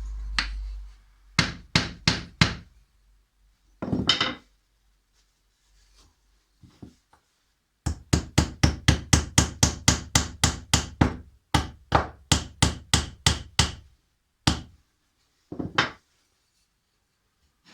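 Hammer blows on wood during assembly of an oak bird feeder: a few strikes, then a long run of quick, even taps, about three a second.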